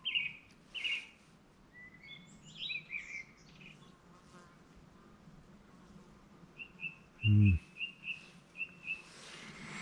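Songbirds singing: scattered chirping phrases in the first few seconds, then a run of about eight short, evenly repeated notes near the end. About seven seconds in there is a brief low vocal sound from a man, a short 'mm', which is the loudest thing heard.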